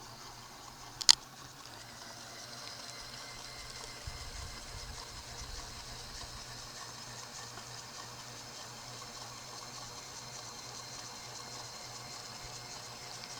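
Water lapping and splashing as a steady hiss, with one sharp click about a second in.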